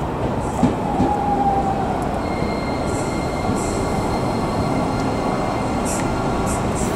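Keio Inokashira Line 1000 series electric train pulling in along a station platform: a steady rumble of wheels on rail, with one sharp knock about half a second in. A thin, high steady whine joins from about two seconds in as it slows.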